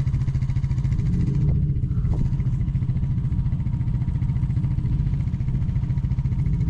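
Four-wheeler (ATV) engine idling steadily close by, with its rapid, even firing pulse. A couple of faint knocks come about two seconds in.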